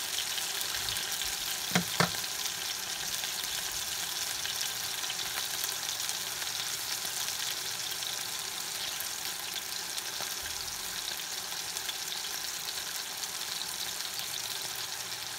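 Ground-pork burger patties frying in butter in a skillet: a steady sizzle with fine crackling spatter. Two quick knocks come close together about two seconds in.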